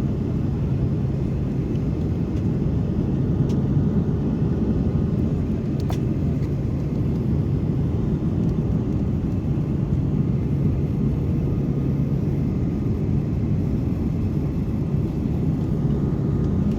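Airliner cabin noise: the steady, deep rumble of the engines and airflow with a low, constant hum. A couple of faint clicks sound in the first half.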